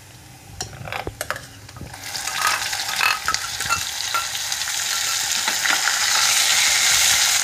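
Raw onion paste dropped into hot oil in a kadhai, sizzling: a hiss that starts about two seconds in and builds steadily louder. Before it, a few light clicks of utensils against the pan.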